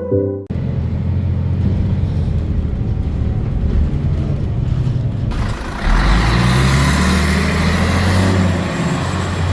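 Loud, steady rumbling vehicle noise, like a road vehicle heard from inside or close by. About five seconds in it changes abruptly to a brighter, hissier rush.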